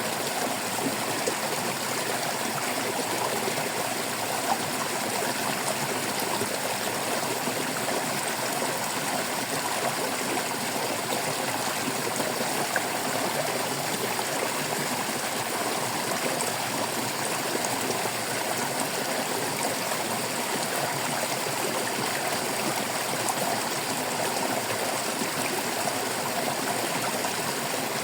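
Stream water flowing and trickling steadily over rocks, an even babbling rush with small splashes.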